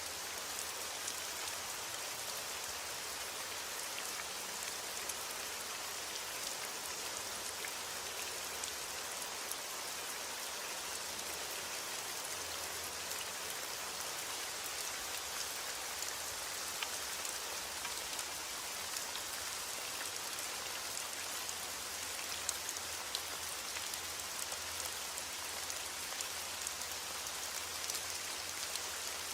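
Steady rain falling on a surface: an even hiss with scattered sharp ticks of single drops.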